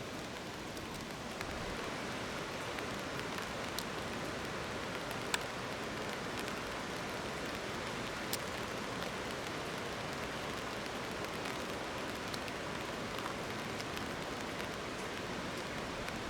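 Steady outdoor hiss with a few faint ticks, about a third, a half and halfway through.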